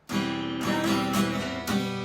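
Acoustic guitar strummed in a 3/4 waltz rhythm: a bass stroke followed by down and up strokes on the chords, which ring on between strokes.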